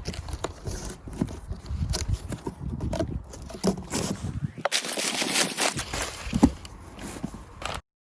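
Irregular handling noise: a run of knocks, clicks and rustling, with a brief hissing rustle about halfway. It cuts off abruptly just before the end.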